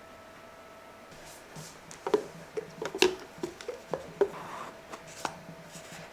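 Small objects being handled and set down: a run of a dozen or so light clicks and knocks over about three seconds, with a faint steady hum underneath.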